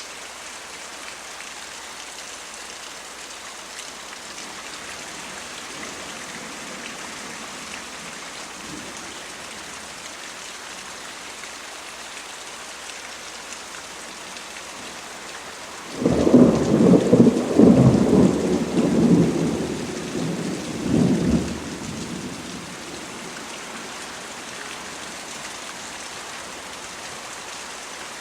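Steady rain falling, with a loud roll of thunder that breaks in suddenly about halfway through, rumbles for about six seconds and dies away back to the rain.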